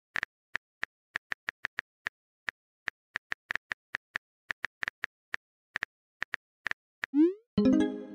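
Phone keyboard typing: short, light taps at an irregular pace, a few a second. About seven seconds in, a quick rising swoosh of a message being sent is followed by a short pitched notification tone.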